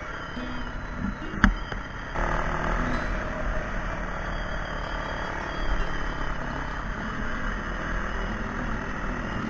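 Dirt bike engine running under way on a trail, heard from the rider's helmet camera with wind rush. A sharp knock comes about a second and a half in, and the sound changes abruptly about two seconds in.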